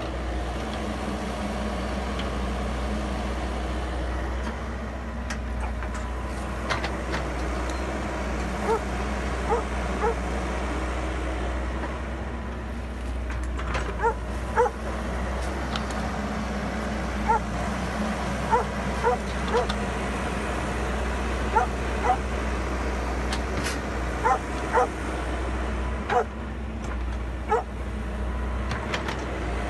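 Wacker Neuson mini excavator's diesel engine running steadily. From about a third of the way in, short high yelps sound over it, often in pairs, every second or two.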